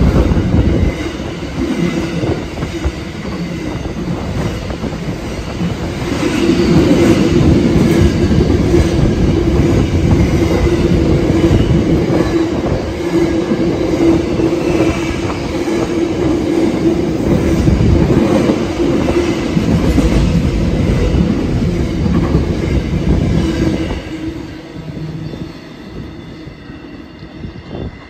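Freight train's container wagons rolling past at speed: a steady rumble of wheels on rail, with a held whine from the wheels from about six seconds in until about twenty. The sound fades away near the end as the last wagon passes.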